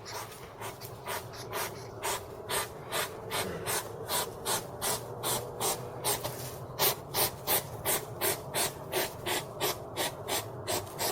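An animal panting rapidly and rhythmically, about two to three short breaths a second.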